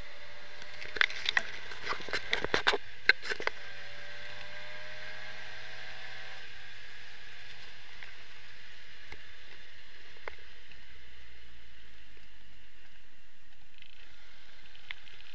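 1962 Triumph Herald 1200's four-cylinder engine pulling the car along, its pitch rising slowly for the first six seconds or so and then dropping away. A run of sharp knocks and rattles comes between about one and three and a half seconds in.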